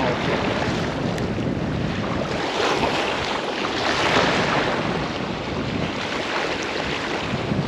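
Waves surging and washing over a seawall, with wind on the microphone; the wash swells louder about three to four seconds in.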